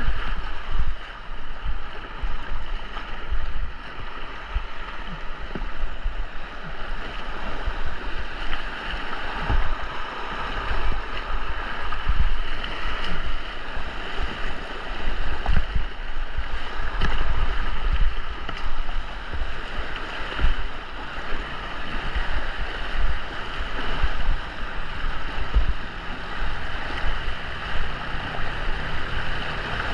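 Steady rush of white water on a river slalom course heard from a kayak, with frequent irregular low thumps.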